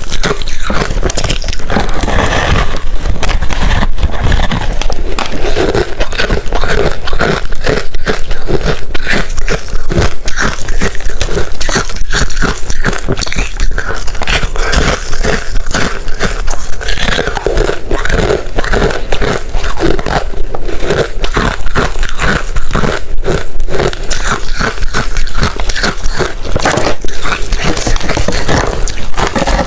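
A person chewing ice, close-miked, with rapid, continuous loud crunching and crackling as the pieces break between the teeth.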